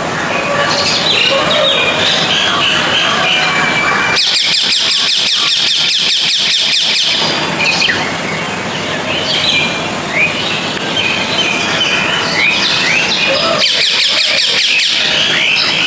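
Birds chirping with short rising calls throughout, and a fast, even trill twice: once for about three seconds and again near the end.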